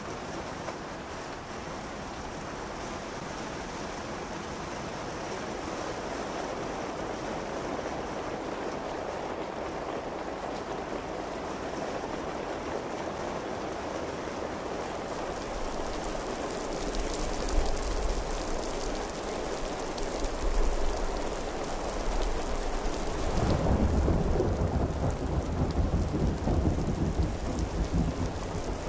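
Layered recordings of steady rain with dripping that thicken and grow louder as more rain tracks come in. About two-thirds of the way through, a heavier layer of plopping raindrops enters and brings a strong, deep low end.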